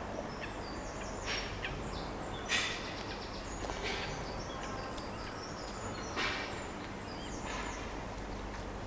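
Birds calling: short high chirps scattered throughout, with a few short harsh rasping calls about every one to two seconds, over a steady low background hum.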